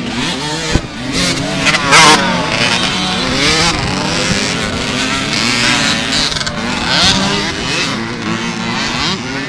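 Several motocross bikes' engines revving, their pitch rising and falling as they race, loudest about two seconds in.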